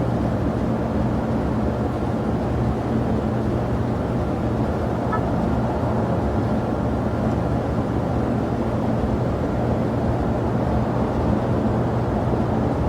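Steady low rumble of jet aircraft engines running at the airport, holding an even level with a low hum.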